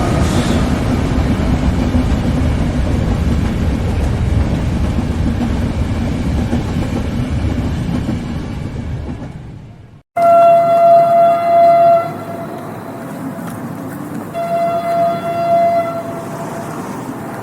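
A passing train with a loud, heavy rumble that fades away about ten seconds in. After a brief silence, a train horn sounds two long blasts of about one and a half to two seconds each over a quieter rumble of rolling stock.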